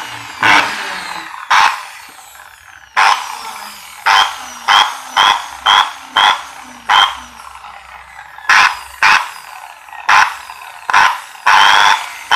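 A 10 mm electric drill's motor run in short trigger bursts, more than a dozen, each spinning up sharply and winding down. It runs rough, which is put down to bearings that are likely dry.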